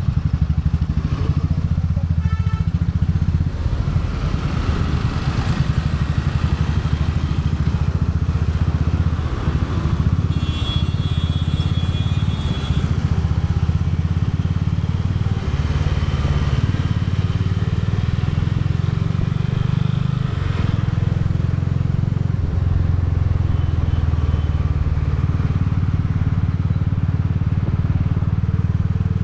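Royal Enfield Bullet 350's single-cylinder engine and exhaust running steadily while riding, a continuous low beat of firing pulses. About ten seconds in, a higher steady tone sounds for about two seconds over it.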